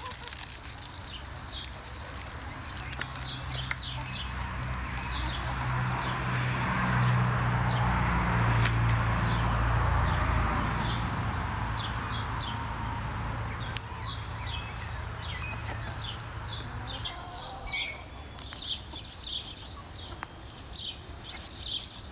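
Small birds chirping again and again in short high notes. Under them a low rumble swells, is loudest about eight to ten seconds in, and fades away by about seventeen seconds.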